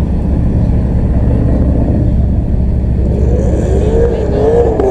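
Steady low rumble of a car engine. In the last second or so a pitched sound rises and falls over it.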